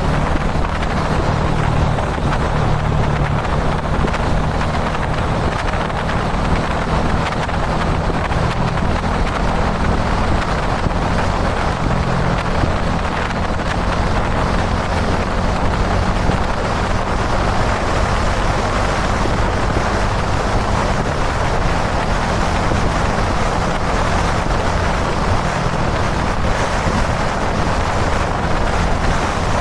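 Kawasaki Dominar 400 UG2's single-cylinder engine running steadily at expressway cruising speed. Heavy wind rush buffets the microphone.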